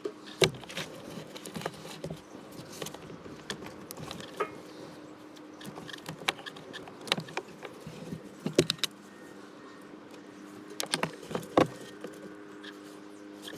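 Scattered clicks and taps of small parts and tools being handled as motorbike handlebar switchgear is taken apart, over a faint steady hum.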